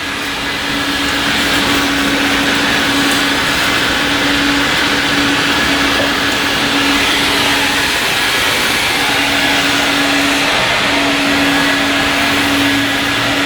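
Self-serve car wash spray wand spraying pre-soak against a wheel well: a loud, steady hiss of spray. A constant low hum runs underneath and drops out briefly a few times.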